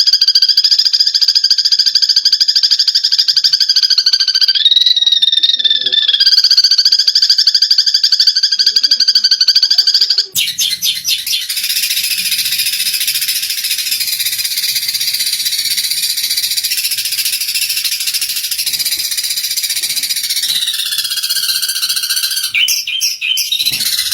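Eurasian tree sparrows chattering in a rapid, unbroken stream of high calls, the excited chatter of sparrows fighting. About ten seconds in it cuts abruptly to a different, slightly quieter run of chatter.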